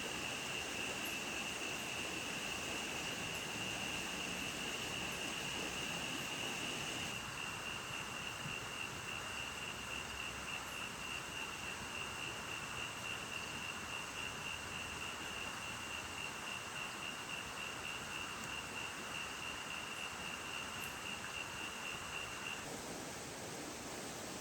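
Steady rain with an insect trilling on one high note over it; the trill is continuous at first, turns into a fast pulsing about seven seconds in, and stops a little before the end.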